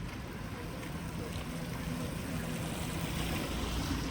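Steady rain falling, an even hiss, with a low steady hum underneath for a couple of seconds in the middle.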